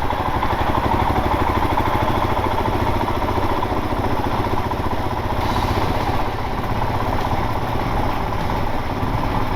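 Motorcycle engine running steadily at low speed, its rapid even firing pulses close to the microphone.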